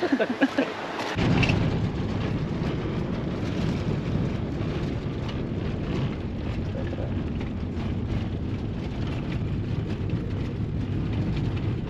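Wind buffeting the microphone, a steady low rumble that starts abruptly about a second in.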